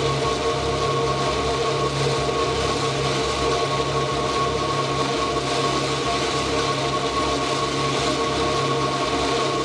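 Ambient electronic music: a dense, steady noisy texture with a few held drone tones and a low hum underneath.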